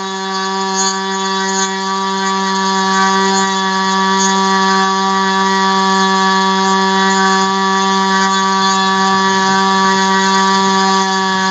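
ASP 25 two-stroke glow-plug model engine, swinging a 10x6 propeller on a test stand and running on 10% nitromethane fuel, holds a steady high-pitched buzz at high revs.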